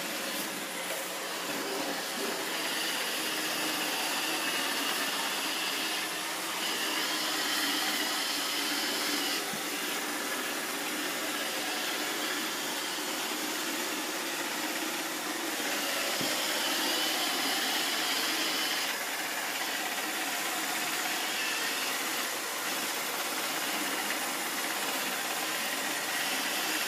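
Roomba robot vacuum running, a steady whirring hum with a higher whine that grows stronger for a few seconds at a time and then drops back.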